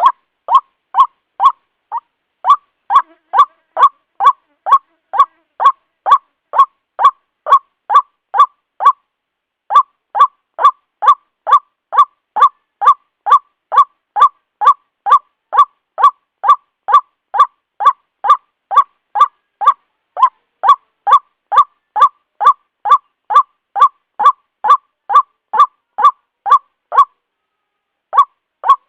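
White-breasted waterhen (ruak-ruak) calling: a steady series of short, honking notes, about two a second, with a brief break about nine seconds in and another near the end.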